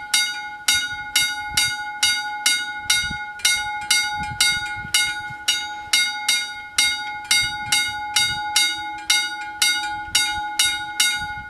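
Railway level crossing warning bell ringing steadily, about two strokes a second, each stroke ringing on.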